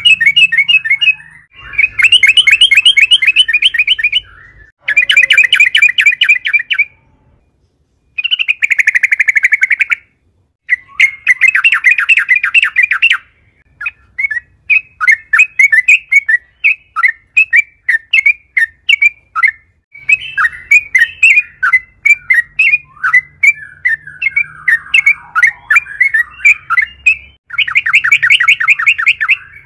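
Yellow-vented bulbul (trucukan) singing loudly in full, vigorous song: dense bursts of rapid bubbling notes about two seconds long, separated by short pauses. Through the middle and later part the song breaks into a longer run of choppier separate notes, and one more dense burst comes near the end.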